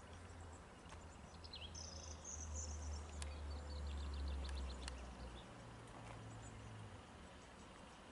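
Faint low rumble of an approaching Siemens Class 700 electric multiple unit, swelling through the middle and easing off, with birds chirping briefly and a few light ticks.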